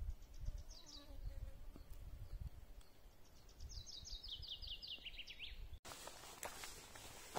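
A songbird sings a rapid trill of short notes falling in pitch, briefly near the start and again in a longer run about three and a half seconds in, over a low rumble. Near the end come crunching footsteps of a hiker.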